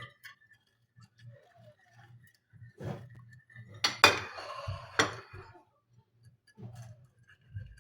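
Dishes and cutlery clinking as they are handled, with two sharp clinks about four and five seconds in that ring briefly.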